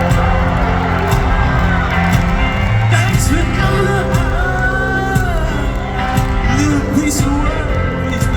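Live rock band playing loudly through a venue's sound system, heard from the audience, with voices singing along over the music.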